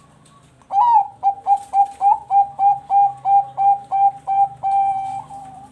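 Zebra dove (Thai-bred perkutut bangkok) singing: a rapid run of about a dozen short, evenly repeated coos, about four a second, starting just under a second in and ending on one longer drawn-out note.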